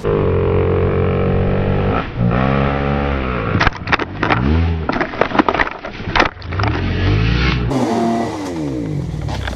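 Motor vehicle engine revving up and down several times, with a run of sharp clicks and knocks through the middle.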